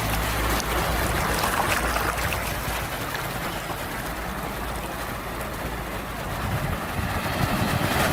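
Sea waves washing in a continuous rush with a low rumble underneath, easing a little midway and swelling again near the end.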